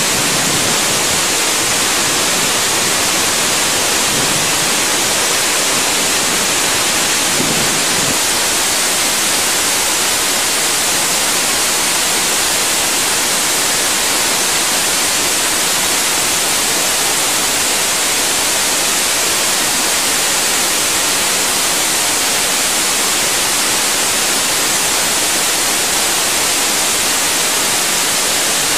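Steady rushing of water, an even unbroken roar without breaks.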